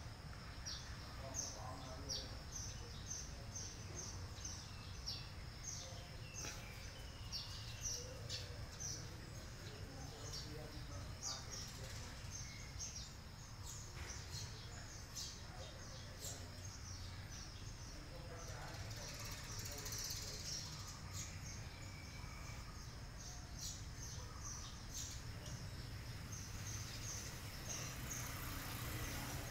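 Small birds chirping, many short high notes repeating throughout, over a steady low background rumble.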